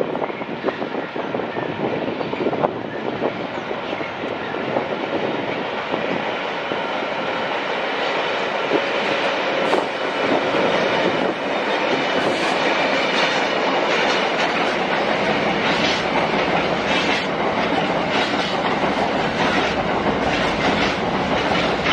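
A train running past on the tracks, with a steady heavy rumble of wheels and rails. From about halfway through, its wheels clack repeatedly over rail joints.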